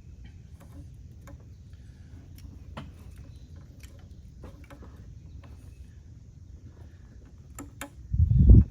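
Light clicks and taps of a replacement intake manifold and its connectors being worked into place on a 4.6 L V8. A heavy low thud comes near the end.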